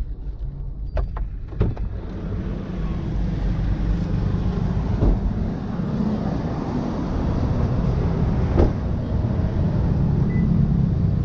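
A vehicle engine running with a steady low rumble, with a few sharp clicks or knocks, one near the start, one about halfway and one towards the end.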